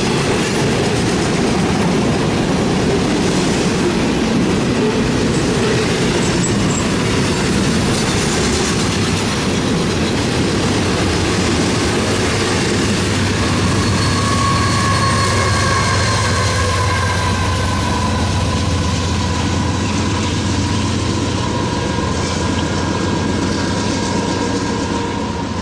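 Union Pacific double-stack container cars rolling past on steel rails with steady wheel-and-rail noise. About halfway through, a steady high squeal from the wheels joins in.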